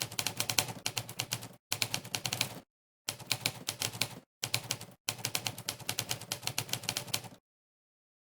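Typewriter key-strike sound effect from a typing-test website, one sampled strike per keystroke, in quick runs of several strikes a second broken by short pauses. The strikes stop about seven seconds in.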